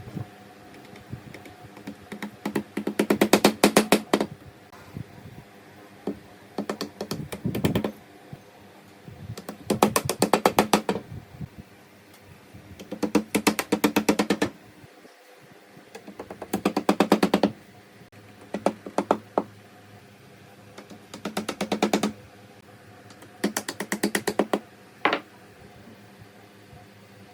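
Repeated bursts of rapid knocking, about eight runs of quick strokes each lasting one to two seconds, a few seconds apart.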